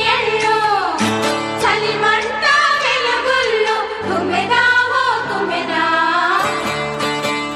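Telugu folk-style song playing loudly: a woman's voice sings gliding, drawn-out lines over instrumental backing with drum strikes.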